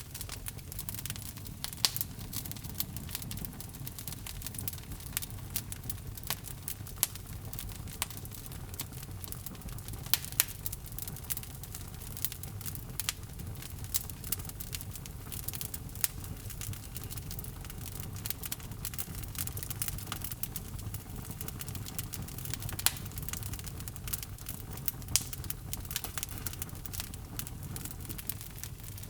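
Wood logs burning in a fireplace: a steady low rumble of flame with irregular sharp crackles and pops, a few louder snaps among them.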